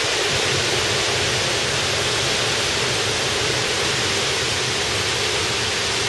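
Heavy thunderstorm downpour: a dense, steady hiss of rain.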